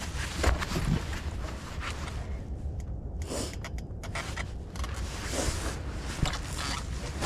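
Rustling and scraping handling noise with many small clicks, over a steady low rumble of wind on the microphone.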